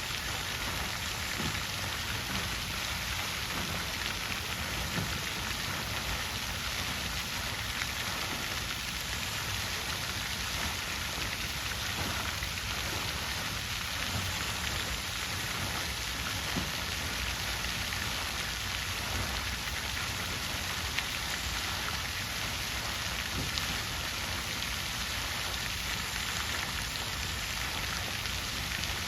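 Water fountain splashing steadily: an even rush of falling water with small scattered drips.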